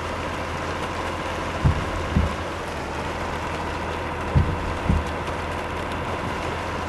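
Truck on the move, with a steady low drone of engine and road noise. Pairs of short, low thumps about half a second apart recur roughly every two and a half seconds.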